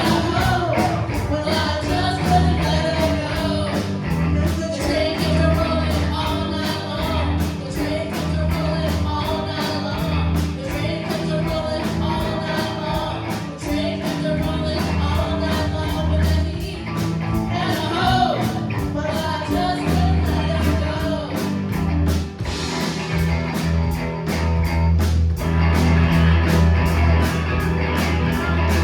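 Live rock band playing a fast rock and roll song, with a driving drum beat, bass and electric guitar, and a singer.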